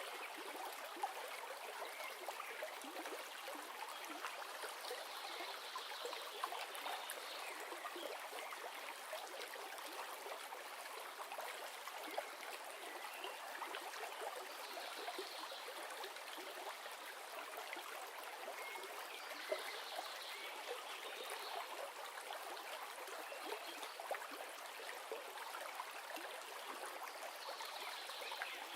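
River water flowing steadily, with a few brief louder splashes here and there.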